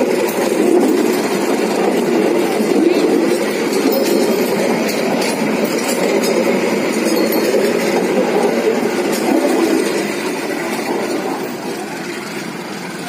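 Passenger coaches of a local train rolling slowly past at very close range, a steady rumble of wheels on the rails. The sound fades from about ten seconds in as the last coach goes by.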